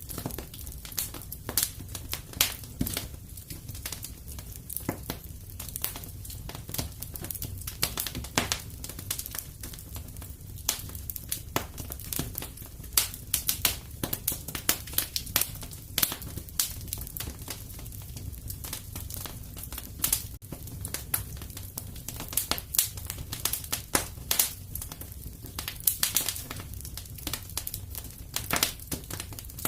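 Wood fire in a fireplace crackling and popping: frequent irregular sharp snaps over a steady low rumble of the burning fire.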